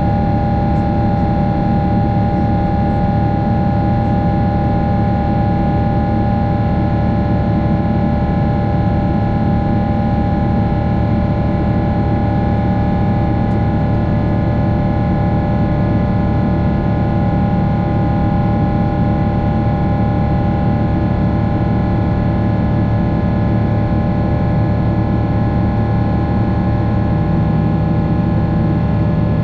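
Boeing 777-300 jet engines heard from inside the cabin: a loud, steady rush of engine and air noise with several steady whining tones layered over a low rumble.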